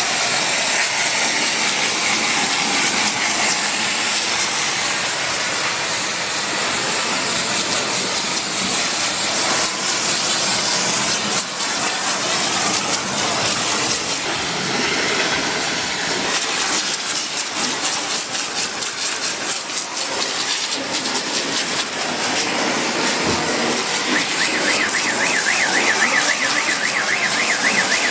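High-pressure washer spraying water, a steady loud hiss. A warbling high tone joins near the end.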